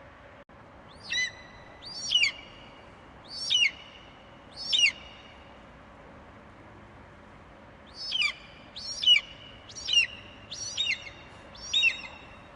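An eagle calling: a series of short, high screeching notes, each sweeping downward in pitch. Four come in a row, then after a pause of about three seconds five more.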